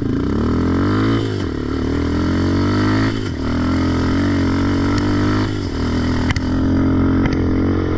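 Raptor ATV engine through its new aftermarket exhaust, revving hard under load in mud. Its pitch rises and falls with the throttle, dipping briefly about three times.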